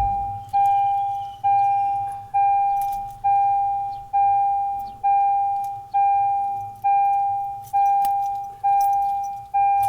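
An electronic warning chime ringing over and over, a single fading ding about once a second, typical of a car's door-open or key reminder chime. Faint clicks are heard now and then underneath.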